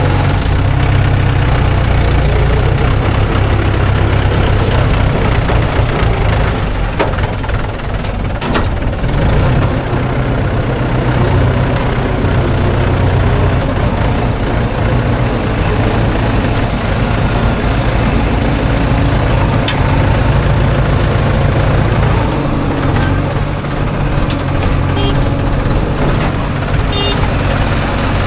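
Mahindra 415 DI tractor's diesel engine running steadily, with a deep low engine sound, and a few faint clicks and knocks over it.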